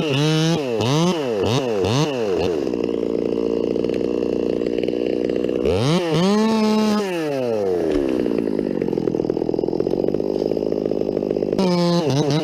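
Two-stroke chainsaw engine being revved: quick throttle blips up and down at the start, held steady for a few seconds, revved again about six seconds in, then winding down before more quick blips near the end.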